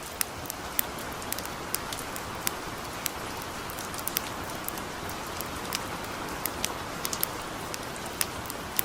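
Steady hiss of gentle rain, with the sharp, irregular pops and crackles of a campfire, a couple each second.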